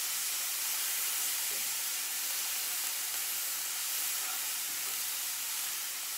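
Peas and carrots sizzling in oil in a frying pan, a steady frying hiss.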